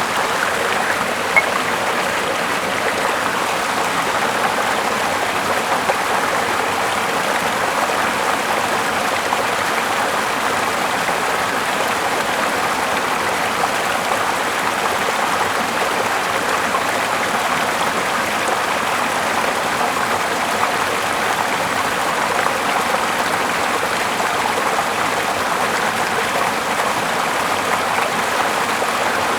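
A small river flowing steadily, a continuous rush of running water, with one brief click about a second in.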